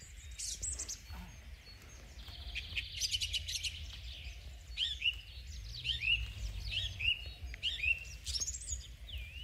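Small birds singing and chirping: a buzzy trill about two seconds in, then a run of short, falling whistled notes repeated roughly once a second. A low steady rumble lies underneath.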